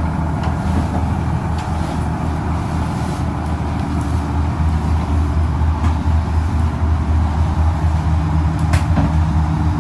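A Marine Trader trawler's inboard diesel engine running steadily at cruising speed, a constant low drone heard from inside the cabin below deck.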